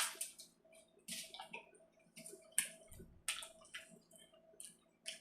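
A person chewing a mouthful of food close to the microphone: a run of irregular smacking mouth sounds, with a soft low bump about three seconds in.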